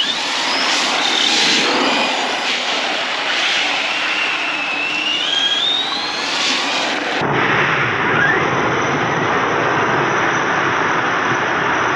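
Arrma Big Rock 6S RC truck's brushless electric motor whining, rising and falling in pitch as it is throttled, over a steady hiss of tyres and spray on wet ground. A little past halfway the sound cuts abruptly to a duller, steady hiss.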